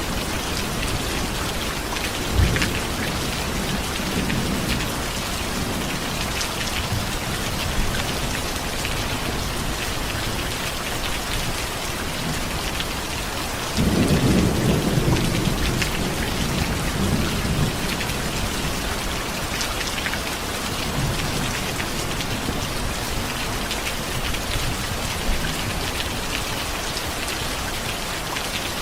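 Steady heavy rain falling, with rolls of thunder: a short crack about two and a half seconds in and a louder rumble that starts suddenly about halfway through and rolls on for several seconds.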